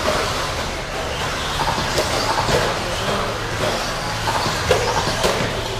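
Several electric RC stadium trucks with 13.5-turn brushless motors racing round the track: motor whines rise and fall as the trucks accelerate and brake, over tyre noise, with scattered sharp knocks.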